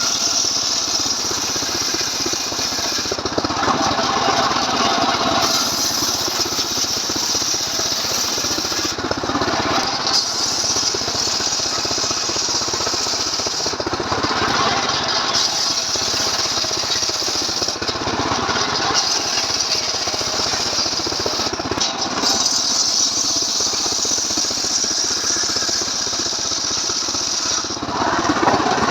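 Stihl MS 381 two-stroke chainsaw engine running hard while sawing wood, its sound shifting every few seconds as the load on the cut changes.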